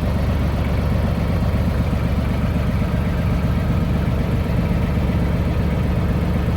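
Pickup truck engine idling steadily with an even low rumble.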